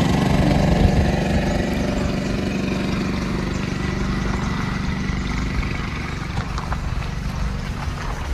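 A car being driven, with the steady hum of its engine and road noise.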